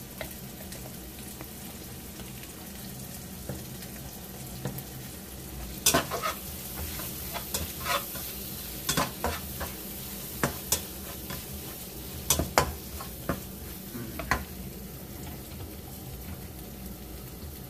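Spice paste frying in hot oil in a pan, a steady sizzle, while it is stirred. The utensil clicks and scrapes against the pan repeatedly from about six seconds in until near the end.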